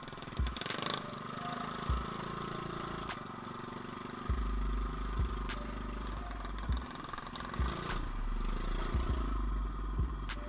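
Small single-cylinder mini bike engine running during a trail ride, with scattered knocks. A heavy low rumble comes in about four seconds in and stays.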